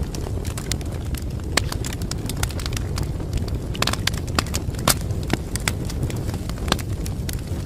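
Wood fire in a fireplace crackling, with irregular sharp pops and snaps over a steady low rumble of burning. A few louder pops stand out, one about five seconds in.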